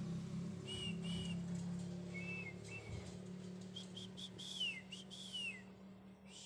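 Birds calling: short, high whistled notes that dip in pitch, coming in little clusters, over a steady low hum.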